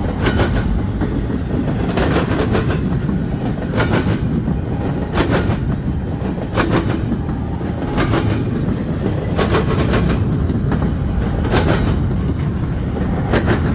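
Long freight train rolling past at speed, a steady heavy rumble with wheels clacking over rail joints in a regular rhythm, a pair of clacks about every second and a half.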